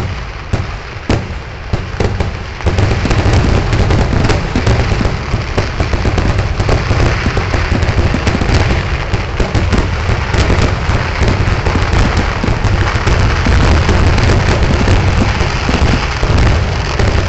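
A fireworks barrage: a few separate bangs at first, then from about two and a half seconds in the explosions come so fast that they merge into one loud, continuous rumble and crackle.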